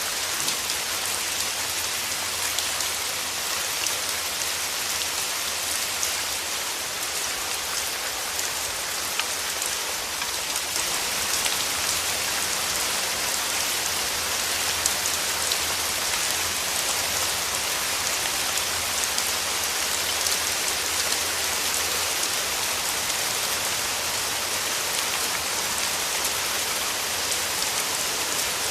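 Rain falling steadily: an even hiss with scattered individual drops ticking through it.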